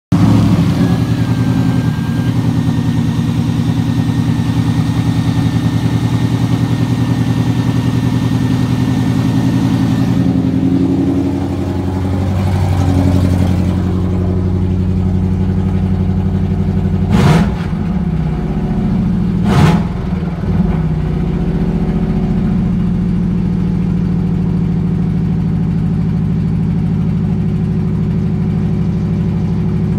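Supercharged 4.6-litre DOHC V8 of a Ford Mustang SVT 'Terminator' Cobra idling steadily. It sounds duller about halfway through, once heard from inside the cabin. Two short loud sounds come a couple of seconds apart just past the middle.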